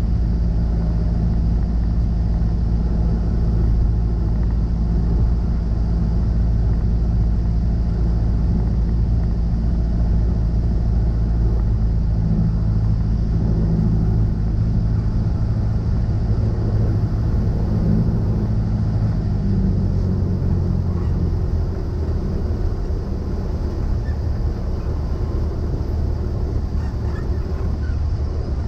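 Cessna 172SP's four-cylinder Lycoming engine and propeller running steadily. About twenty seconds in, the engine note drops lower and gets a little quieter.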